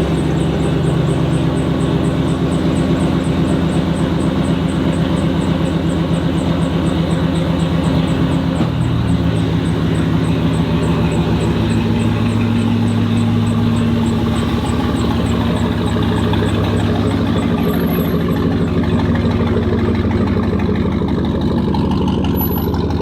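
Pickup truck engine running steadily at low speed as the truck is moved, its pitch shifting a little partway through. A faint, fast, high ticking runs under it for the first half.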